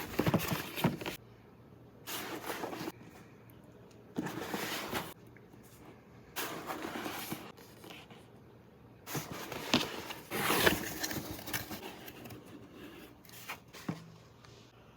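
Handling noises from the parts of a building kit: scraping and clicking in short bursts of about a second each, with a longer, busier stretch about nine seconds in.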